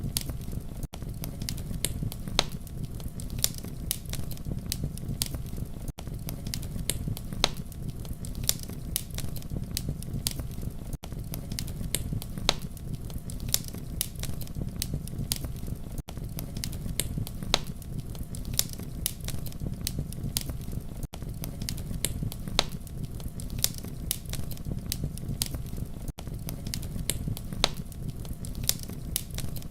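Wood fire crackling: a steady low rumble of flames under frequent, irregular sharp pops and crackles. There is a brief dropout about every five seconds.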